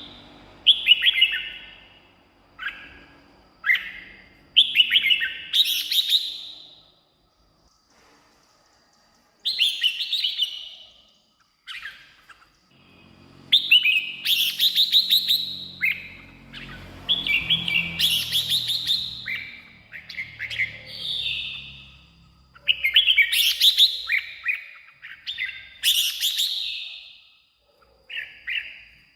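Red-whiskered bulbul singing: short, bright, warbled phrases, one every second or two, with a pause of a couple of seconds about a third of the way in.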